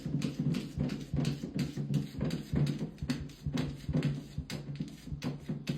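A dog growling low and continuously, the growl pulsing unevenly.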